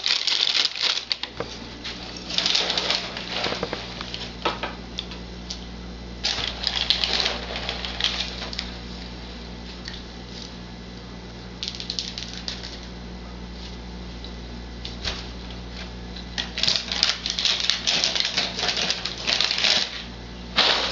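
Cheerios-type cereal rattling in a plastic bag and pieces scattering, in irregular bursts with pauses between. A low steady hum runs underneath from about a second in.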